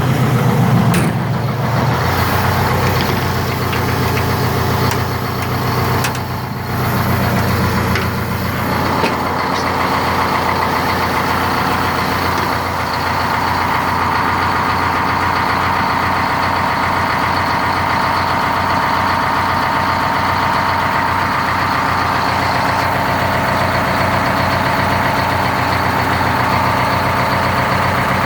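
Detroit Diesel 8V71N two-stroke V8 of a 1982 Hahn fire truck running from a cold start. Its sound shifts over the first several seconds and settles into a steady idle about nine seconds in.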